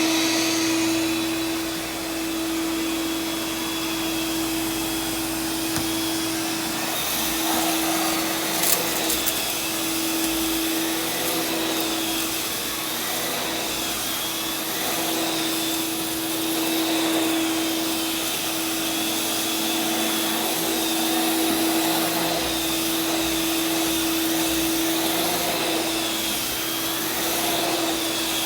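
VacMaster 8-gallon two-stage shop vac with a spinning beater-bar carpet head, running steadily while vacuuming dry soil out of carpet. It gives a steady motor hum under airflow rush, with a high whine that wavers slightly. There is a brief click about nine seconds in.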